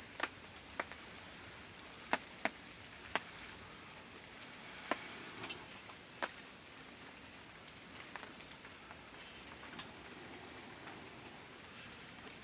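Steady rain falling, with scattered single drops ticking sharply at irregular moments.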